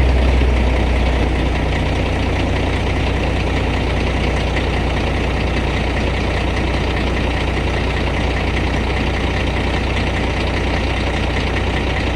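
Semi truck's diesel engine idling steadily through a newly fabricated partial exhaust, just after starting. It runs a little louder for the first second, then settles into an even, deep idle.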